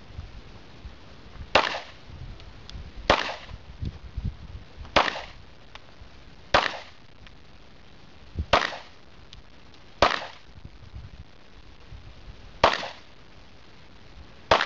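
Handgun shots fired singly at an unhurried, uneven pace, about eight in all, spaced one and a half to two and a half seconds apart, each a sharp crack with a short echo.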